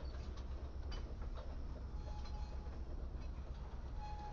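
Freight cars (tank cars and a gondola) rolling slowly past, steel wheels clicking irregularly over the rail under a low steady rumble, with a faint thin squeal twice.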